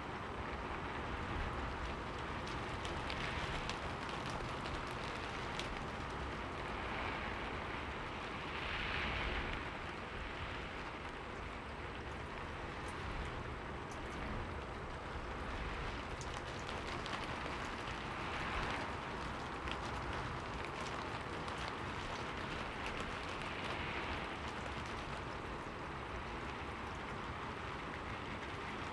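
Steady rain falling on a window pane, a continuous hiss with scattered drop ticks and brief swells in intensity.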